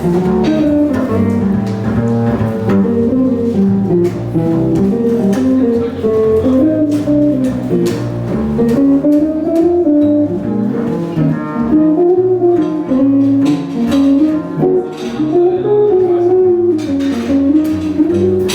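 Jazz guitar playing a single-note melodic line, with plucked double bass accompanying underneath.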